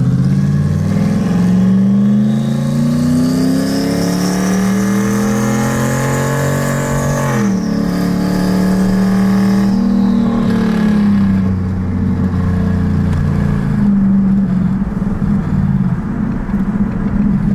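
Turbocharged 2018 Ford Mustang GT's 5.0 Coyote V8 pulling through a slow, steady climb in revs for about seven seconds, with a turbo whine rising in pitch over the engine note. The revs then drop off sharply and the car runs on at steady, lower revs, with a brief smaller rise about ten seconds in. It is a light-throttle pull kept out of boost while a first base tune is data-logged.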